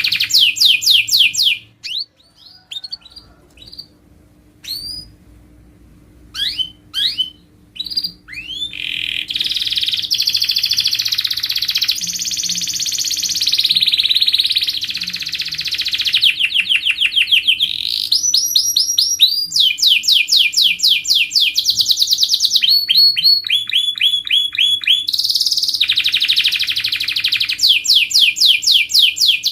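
Domestic canary singing: fast trills and rapidly repeated rolling phrases. A stretch of scattered single notes and short sweeps about two seconds in gives way to continuous trilling again from about nine seconds.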